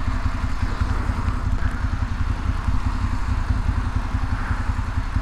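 2012 Ducati Monster 696's air-cooled V-twin running steadily through Akrapovic slip-on exhausts, a fast even low pulsing with no revving.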